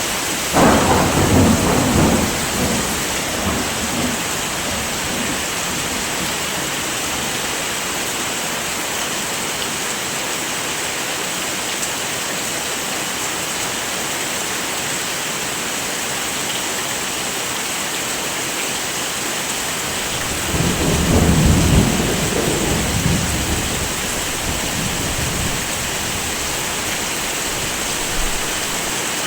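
Heavy rain falling in a steady hiss, with two rolls of thunder: one starting suddenly just after the start and rumbling away over a few seconds, and a second, longer low rumble about two-thirds of the way through.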